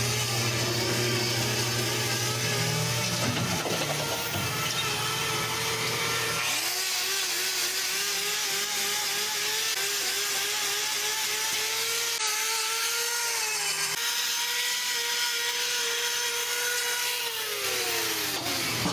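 Handheld power tool used for trimming a cow's hoof, its motor running with a steady whine that drops in pitch as it winds down near the end.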